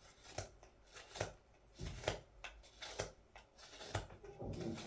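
Carving knife shaving green wood from the handle of a wooden scoop: a quick series of short slicing cuts, roughly two or three a second.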